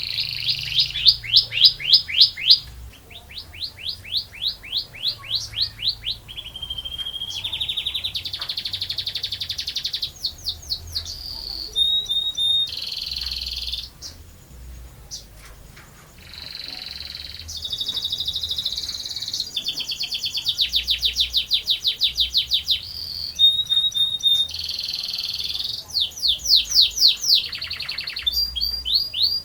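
Domestic canary singing a long, continuous song: phrases of fast repeated notes that each slide down in pitch, alternating with dense rolling trills, the long 'roll' canary fanciers prize. The song drops to a softer passage briefly around the middle, then picks up again.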